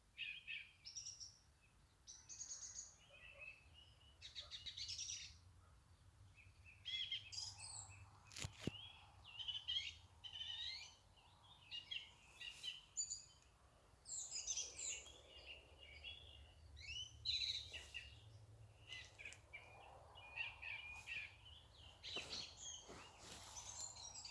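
Several birds singing and chirping in an early-morning dawn chorus, short overlapping phrases and trills coming and going throughout. A single sharp click about eight and a half seconds in.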